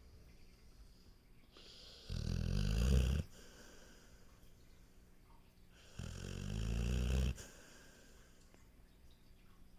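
A sleeping dog snoring: two snores about four seconds apart, each about a second long and growing louder, with quiet breathing between them.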